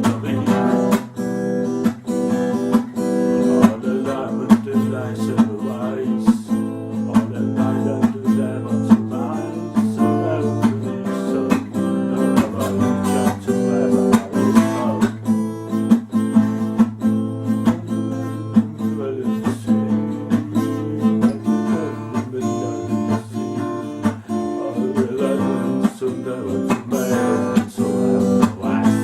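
Wordless improvisation on an acoustic guitar: chords strummed and picked in a steady flowing rhythm.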